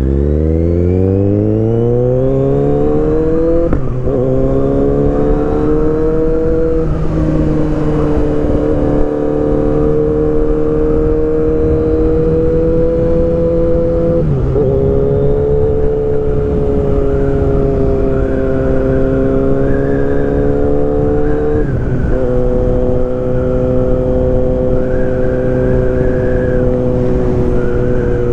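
2023 Kawasaki Z900's inline-four engine pulling away under acceleration, its pitch climbing steadily for the first few seconds, then running through gear changes with a brief break and a drop in pitch about four times before holding a steady cruise.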